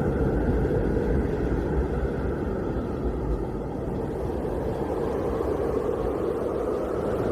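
Blizzard wind blowing steadily as a low, rumbling rush with little high hiss, easing slightly midway and building again near the end.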